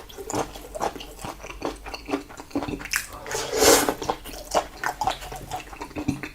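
Close-miked chewing of salted seafood and rice: a string of wet mouth clicks and smacks, with a longer noisy rush of breath or a slurp about three and a half seconds in.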